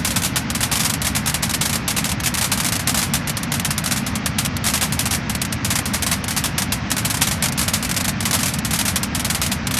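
Wood fire crackling and popping in a dense, irregular stream of sharp snaps, over a steady low rumble.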